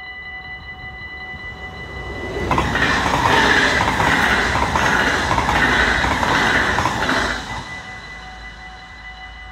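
A level-crossing warning signal sounds steadily as an NS double-deck electric passenger train passes at speed. The train is a loud rush of wheel and rail noise with a regular pulsing, from about two and a half seconds in to about seven and a half seconds, then it fades while the crossing signal keeps sounding.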